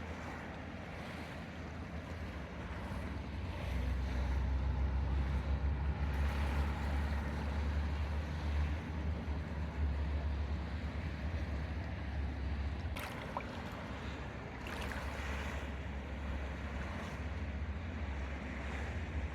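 Sea waves washing onto the beach while wind buffets the microphone with a low rumble that swells a few seconds in. There is a sharp click about two-thirds of the way through.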